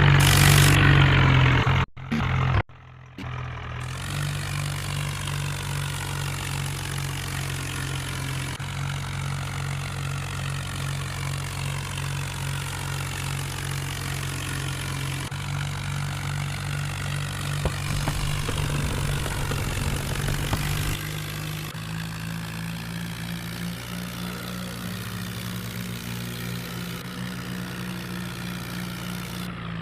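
Tractor diesel engine running steadily, its pitch cut off abruptly a couple of times in the first few seconds.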